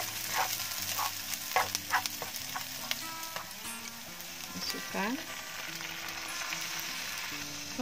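Chopped onion, garlic, curry leaves and bird's eye chillies sizzling in butter in a non-stick frying pan, with a spatula stirring and scraping through them in quick strokes during the first couple of seconds.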